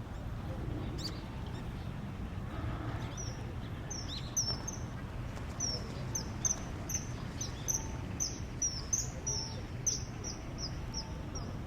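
A bird calling in a quick series of short high chirps, about two to three a second, beginning a few seconds in, over a steady low rumble.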